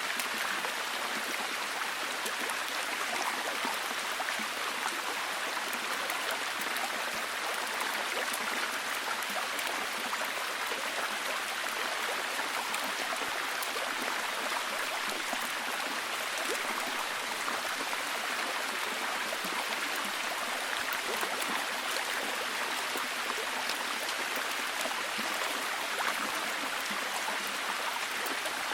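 Steady, heavy rain falling in a dense, even patter of countless fine drops, with no let-up.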